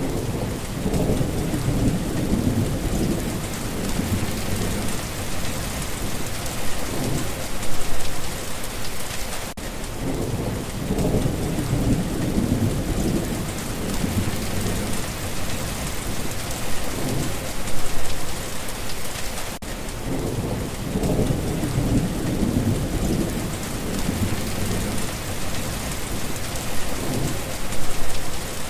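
Steady rain, with low rumbles of thunder rolling in about every ten seconds.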